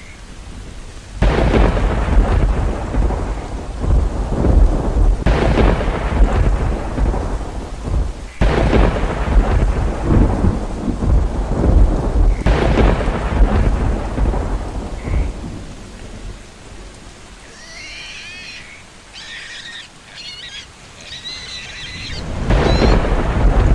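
Heavy rain with thunder, several rolls in a row, each starting suddenly and rumbling down slowly. In a quieter spell later on, a few short high chirping calls come through before the thunder and rain swell again.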